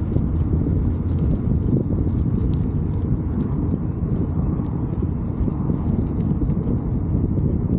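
Wind buffeting the microphone of a moving bicycle: a steady low rumble, with faint irregular ticking and rattling over it.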